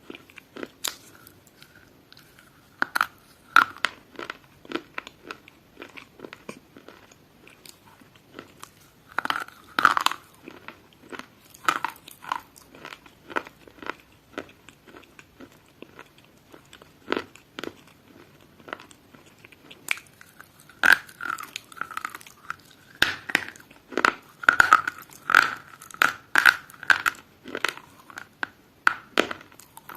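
Crunchy food being bitten and chewed: a long run of irregular sharp crunches, coming thickest about two-thirds of the way through.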